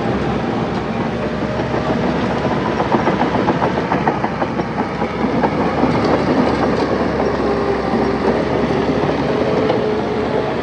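Crawler bulldozer working: the diesel engine runs steadily under load while the steel tracks clank and clatter continually.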